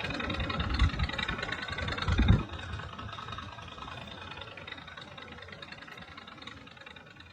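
Steam engine of a restored 1950s steam-powered boat running steadily, with two low thumps in the first few seconds, then fading away.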